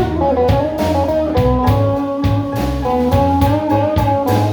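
Blues band playing a slow blues instrumental passage between sung lines: a guitar carries the lead over bass and drums keeping a steady beat.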